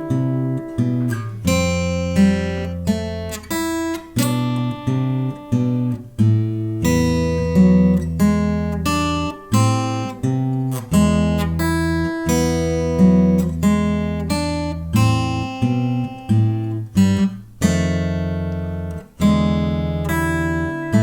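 Six-string acoustic guitar playing a fingerpicked piece at a slow tempo: single plucked melody notes over held bass notes, one or two notes a second.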